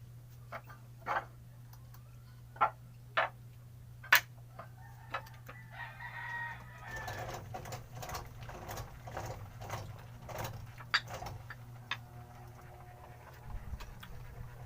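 A rooster crowing about six seconds in, with scattered sharp clicks before it and a steady low hum underneath.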